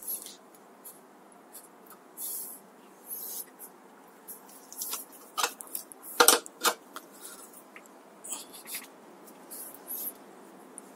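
Scattered metal clicks and scrapes of a crank puller being threaded into a bicycle crank arm and turned, with the sharpest cluster of clicks about six seconds in.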